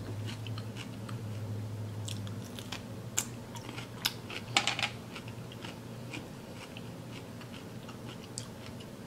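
Close-up chewing of raw cucumber: moist crunching and mouth clicks, with a few sharper crunches about three to five seconds in.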